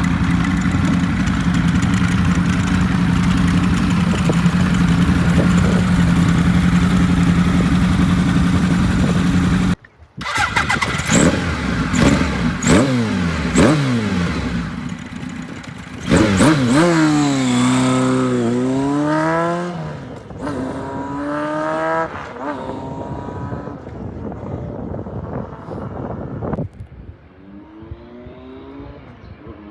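Kawasaki KZ1100R's air-cooled inline-four engine, bored out to 1135cc and breathing through Yoshimura TMR36 carburettors, running at a steady pitch for about ten seconds. After a sudden break it revs up and down repeatedly, the pitch falling and rising again, and near the end the revs climb.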